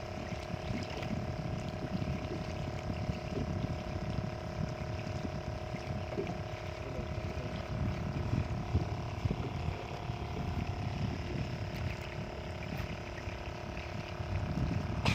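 Wind buffeting the microphone and waves washing, a continuous uneven rumble, with a faint steady drone underneath.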